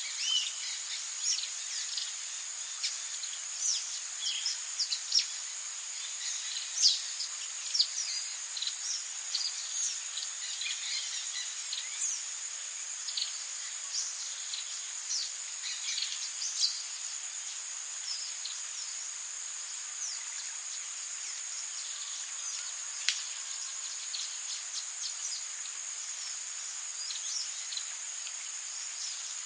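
Rainforest ambience: a steady high-pitched insect drone with many short bird chirps and quick falling calls, busy in the first half and thinning out later, with one sharp call about two-thirds of the way in.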